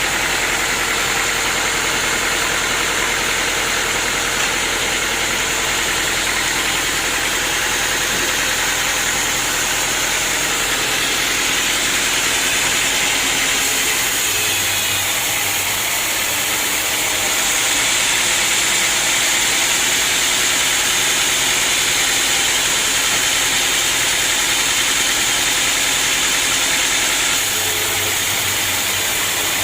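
Sawmill machinery running steadily, with an engine-like drone under a bright, hissing machine noise. The sound shifts about halfway through and grows a little louder and brighter for most of the second half.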